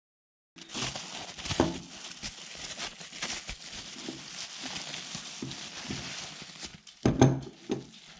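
Plastic packaging crinkling and rustling as a parcel is unwrapped by hand, with a few louder knocks near the end.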